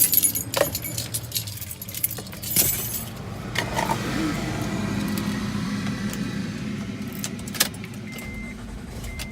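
Rattling and clicking as someone gets into a Honda Odyssey minivan, followed by a steady low hum inside the van. A single sharp click comes near the end, then a repeating high electronic beep from the van.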